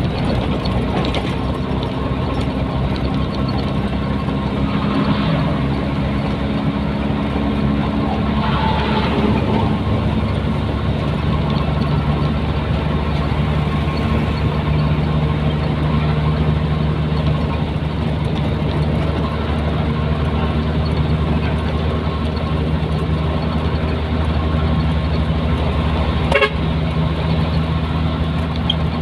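Nissan Diesel container truck's diesel engine running steadily under way. The engine note shifts in pitch during the first ten seconds, and there is one sharp click near the end.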